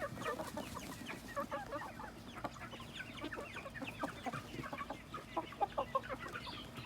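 A flock of chickens clucking and chirping, many short calls overlapping without a break.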